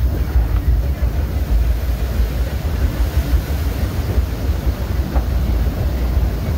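Steady rumble of a narrow-gauge passenger train running behind steam locomotive No. 4's tender, with wind buffeting the microphone.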